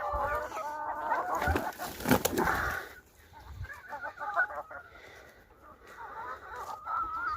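A flock of chickens clucking and chattering, busiest in the first three seconds, then quieter and sparser.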